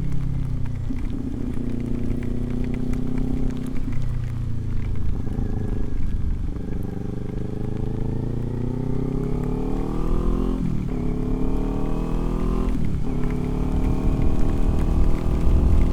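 Motorcycle engine running under way, its pitch climbing as it accelerates and dropping sharply twice, about eleven and thirteen seconds in, at upshifts. A steady low wind rumble runs underneath.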